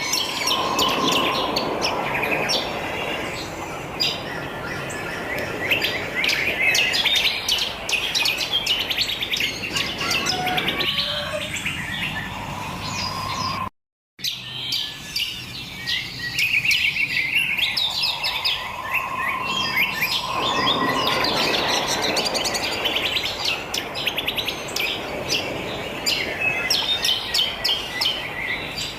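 Many wild birds chirping and singing at once, a dense chorus of quick overlapping calls over a steady background hiss. The sound cuts out completely for a split second about halfway through.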